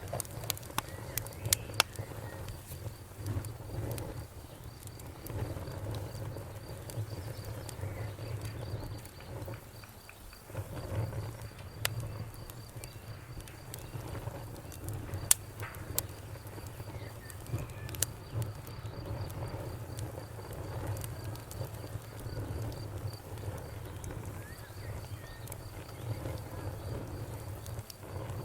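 Wood fire crackling: irregular sharp pops and snaps, a few louder than the rest, over a steady low rumble of burning.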